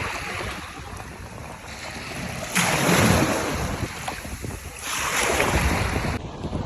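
Sea and wind: a steady rushing noise, with two louder surges of rush and splash about two and a half seconds and five seconds in.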